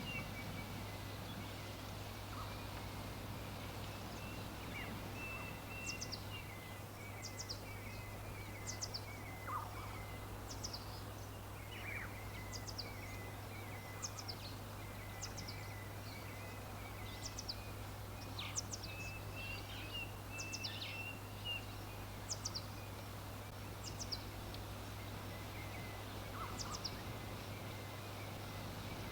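Birds chirping: short, high, falling chirps repeated about once a second, with a warbling call lower in pitch coming and going. A steady low hum runs underneath.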